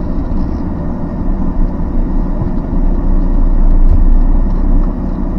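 Vehicle engine running, a steady low rumble that grows a little louder about three seconds in and then eases back.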